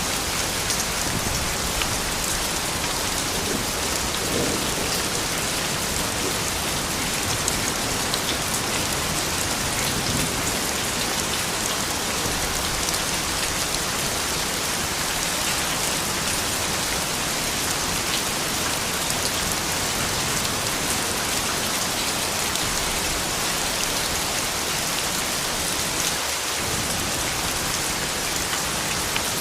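Steady rain falling on surfaces: an even, unbroken hiss with single drop hits standing out on top.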